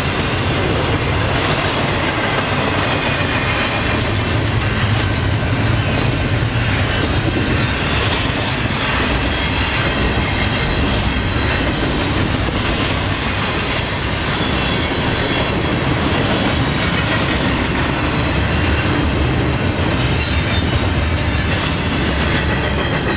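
Cars of an empty coal train rolling past at close range: a steady rumble and clatter of wheels on rail, with brief high-pitched wheel squeals about 13 to 16 seconds in.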